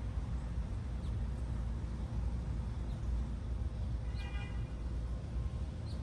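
Steady low rumble with a few faint, short, high bird chirps over it, and a brief buzzy note with several overtones about four seconds in.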